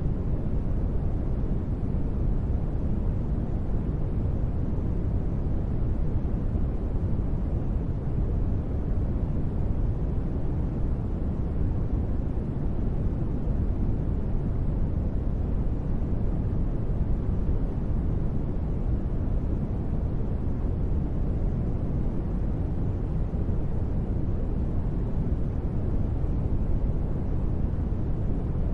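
Steady, unbroken noise ambience, deep and dark rather than hissy: most of it sits in the low end and it thins out toward the highs. It is a synthetic space-ambience noise bed with no events or changes.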